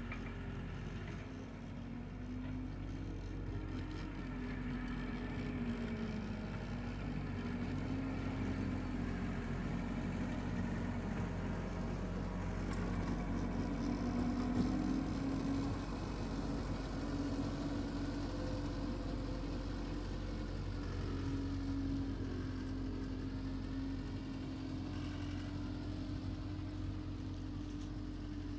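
Tractor engine running steadily while driving a power rake, its pitch wavering slightly.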